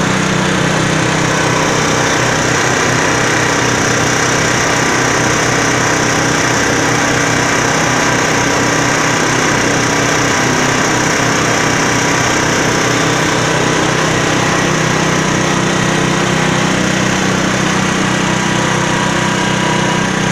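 Diesel engine of a concrete mixer running steadily at one constant speed, loud and even throughout.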